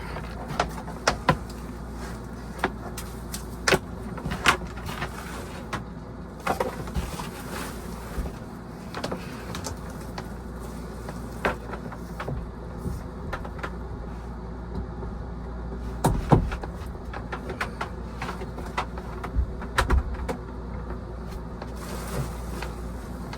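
Scattered clicks and knocks of hands working with parts and tools, over a steady low hum of running equipment.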